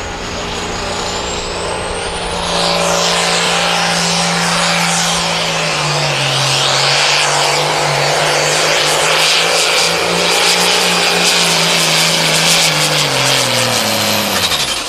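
Pro Farm class pulling tractor, a turbocharged diesel, pulling the sled under full power: a steady engine note with a high turbo whine that rises in pitch and grows louder about two seconds in. Near the end the engine and the whine wind down together as the pull ends.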